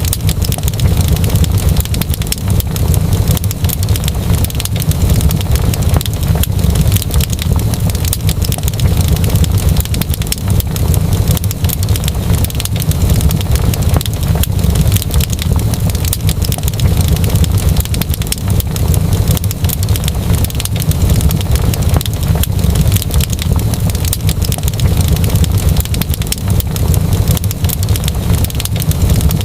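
Wood fire crackling, with a dense, constant stream of small pops over a steady low rumble.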